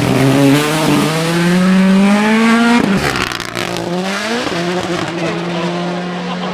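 Rally car engine at full throttle, its pitch climbing steadily through the gear, broken nearly three seconds in by an upshift with a burst of crackling. It climbs again briefly, then holds a steady note.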